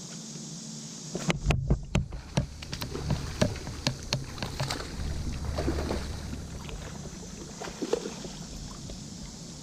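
Irregular knocks and clunks on a fishing kayak, a quick cluster at first and then spaced out, with a low rumble in the middle.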